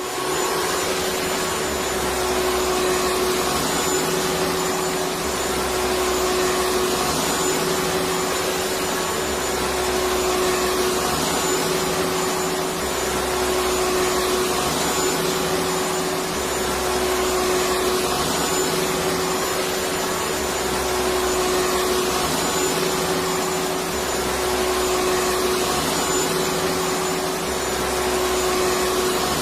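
Vacuum cleaner running continuously, a steady motor hum over rushing air, with a low part of the sound coming and going about every two seconds.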